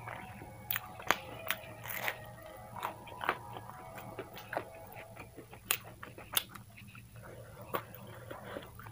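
Close-miked chewing of a crispy fried chicken samosa: irregular crunches and wet mouth clicks, over a low steady hum.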